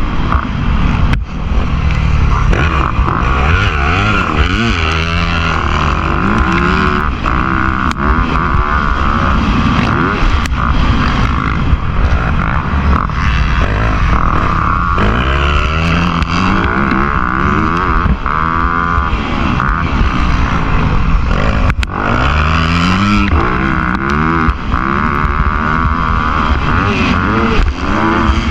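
Motocross dirt bike engines revving up and down again and again, the pitch rising and falling every second or two over a constant low rumble.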